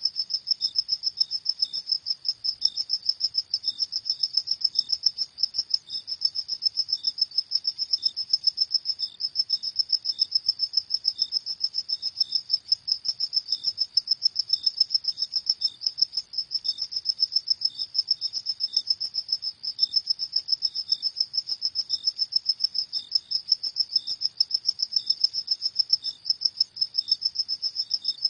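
Crickets chirping steadily, a high-pitched trill pulsing in a fast, even rhythm.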